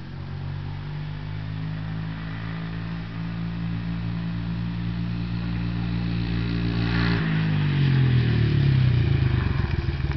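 Honda XR70R dirt bike's small single-cylinder four-stroke engine running steadily, growing gradually louder; about seven seconds in its pitch shifts and falls as it reaches its loudest.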